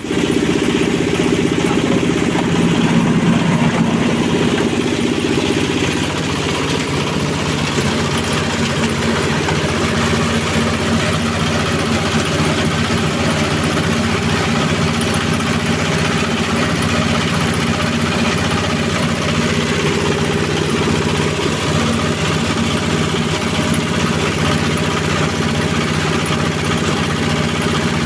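Powered grinding mill for dried fish running steadily, a continuous machine hum with its drive motor. It gets slightly quieter about six seconds in.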